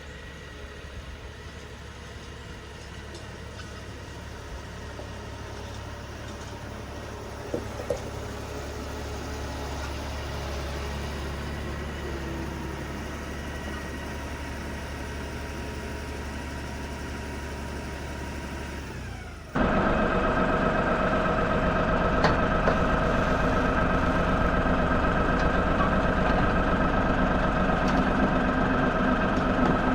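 A motor vehicle engine runs steadily. About two-thirds of the way in, the sound changes abruptly to a louder, closer engine run with a higher, more tonal hum.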